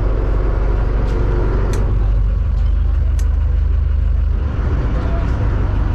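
Steady low engine rumble heard from inside a moving vehicle. A few short clicks come about one, two and three seconds in.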